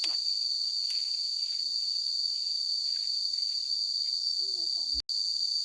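Steady, unbroken insect chorus with a high, even pitch, with a few faint rustles among it. The sound cuts out for an instant about five seconds in.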